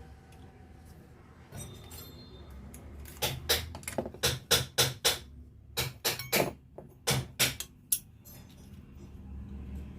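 Sharp metal-on-metal knocks: a dozen or so strikes in quick, irregular groups, starting about three seconds in and stopping about eight seconds in.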